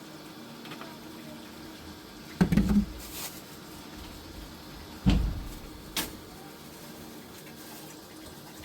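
Two dull thumps about two and a half seconds apart, then a sharp click, over a low steady hum.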